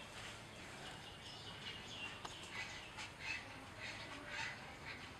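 Birds chirping faintly in the background, short high calls coming about three times a second, with a thin steady high note held for about a second near the start.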